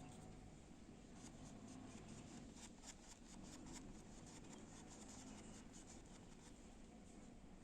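Faint, irregular scratchy strokes of a paintbrush on the painting surface, over a low steady hum.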